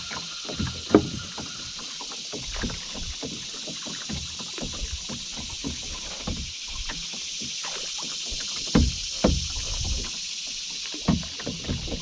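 Canoe being paddled: irregular paddle splashes and knocks of the paddle against the hull, with a few louder thumps about a second in, near 9 seconds and about 11 seconds in, over a steady high hiss.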